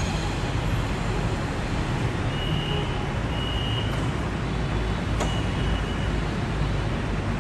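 Steady low rumble and hiss of a moving vehicle, with a faint high tone about two to four seconds in.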